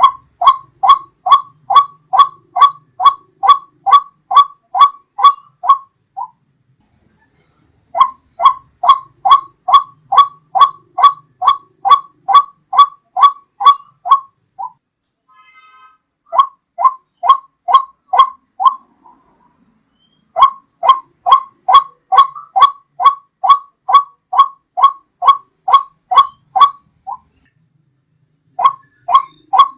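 White-breasted waterhen calling: a loud, even series of repeated notes, about two to three a second, in bouts of several seconds broken by brief pauses. This is a recorded lure call used to draw the bird in.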